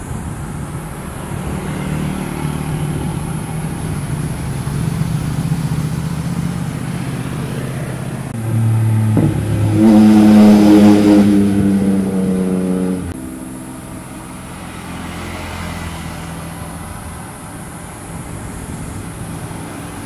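Motor vehicles driving past: an engine drones steadily at first, then a louder vehicle passes close about nine seconds in, its engine pitch climbing as it accelerates, and drops away about thirteen seconds in.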